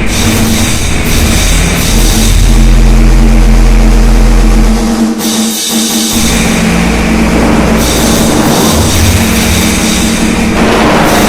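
Noisecore: loud, dense distorted noise with a steady low drone and a heavy low rumble. The racket drops out briefly about five and a half seconds in, then resumes.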